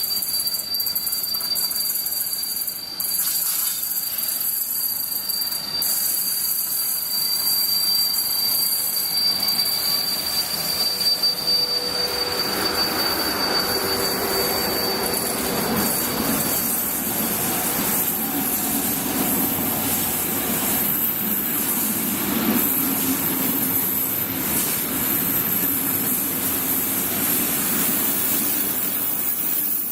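A train running through the station, with a thin, high, steady whine over the first half that fades out. After that a fuller rumble of the train grows stronger.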